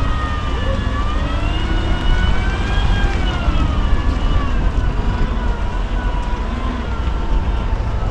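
Electric Unimog's drive motor whining, its pitch rising and falling as it works over the course, over a heavy low rumble.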